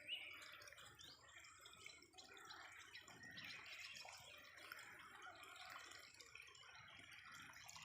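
Faint chorus of small birds chirping: many short, quick notes overlapping.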